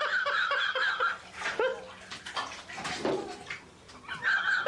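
Water splashing and sloshing in a filled bathtub as a cat falls in and scrambles out, mixed with a young child's high-pitched cries.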